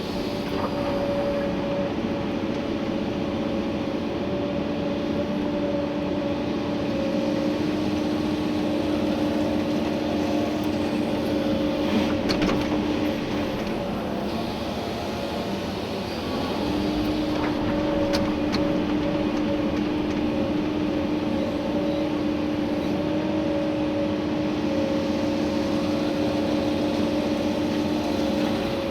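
Komatsu PC290-11 excavator's diesel engine and hydraulics running under working load, heard from inside the cab, with a steady hum that drops away for a couple of seconds midway and then returns. A few faint knocks come through.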